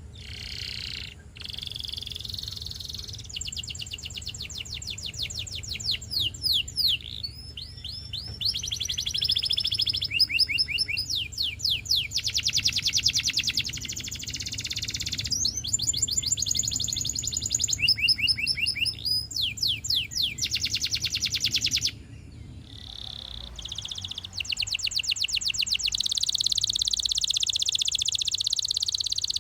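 Russian canary singing a long, fast song of trills and rolls: rapid runs of repeated high notes that switch from one pattern to the next every few seconds. It pauses briefly a little after two thirds through, then carries on. A low steady hum lies underneath.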